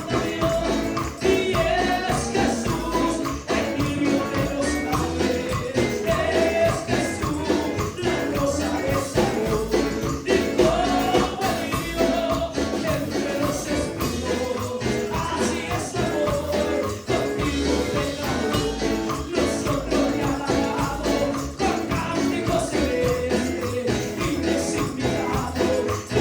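Upbeat Pentecostal Spanish-language chorus music: voices singing over a steady driving beat with a tambourine jingling throughout.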